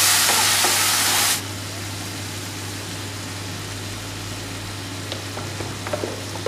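Diced potatoes sizzling in oil and spices in a nonstick kadai while a wooden spatula stirs them. The loud sizzle drops off suddenly about a second and a half in, leaving a quieter sizzle over a steady low hum, with a few light spatula scrapes near the end.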